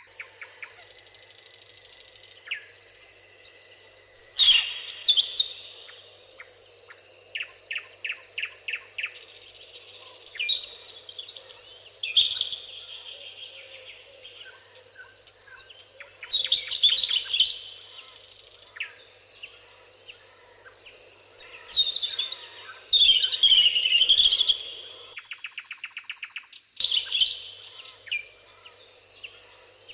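Several songbirds singing in a meadow, with loud chirping, warbling phrases every few seconds and quick rattling trills, over a steady high-pitched background tone.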